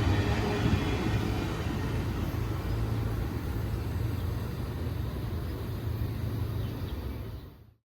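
Amtrak passenger train rolling past, a steady low rumble of wheels on rail that eases slightly before the sound cuts off abruptly near the end.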